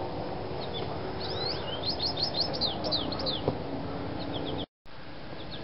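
A songbird singing outdoors: a quick run of high, downward-slurred chirps starting about a second in and lasting about two seconds, then a few more notes near the end.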